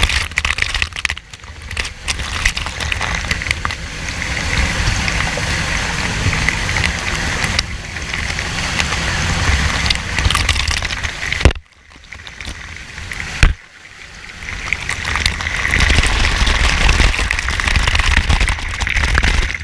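Waterfall pouring: a loud, steady rush of falling water with a deep rumble on the microphone. Twice, a little past the middle, it drops away briefly, with a sharp knock each time.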